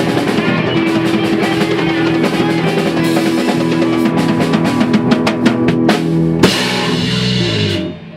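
A rock band playing live: drum kit with bass drum and snare, with guitar and bass. A run of quick drum hits leads into one big final hit about six and a half seconds in. The last chord rings out and stops shortly before the end.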